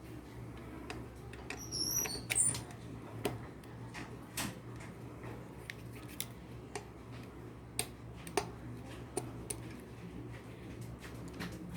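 Irregular light clicks and clinks of hand work on a bike's hydraulic disc brake, loudest about two seconds in, with a short burst of high chirps at the same point, over a steady low hum.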